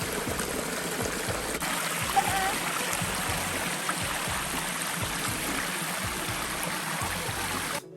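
Water of a small waterfall and creek rushing and splashing steadily. It cuts off suddenly just before the end.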